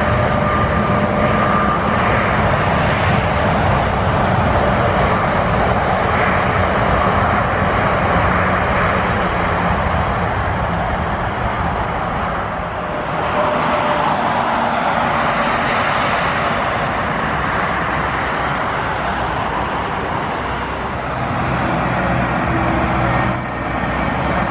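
Boeing 787 jet engines at takeoff power: a steady, loud roar with faint whining tones in it, which dips briefly and changes character about halfway through.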